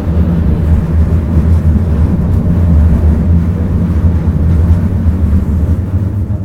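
Class 399 Citylink tram-train running along the track, heard from inside the car as a loud, steady low rumble.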